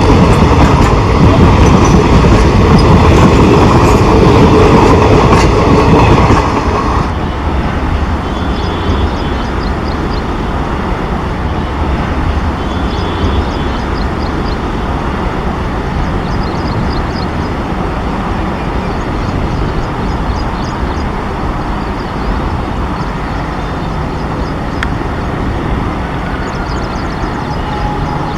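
Coaches of a passenger train rolling past as the train gathers speed, with a steady rumble and wheel sets clicking over rail joints. It is loud for the first six seconds, then drops sharply. After that, clusters of clacks come every few seconds as each coach's bogies pass.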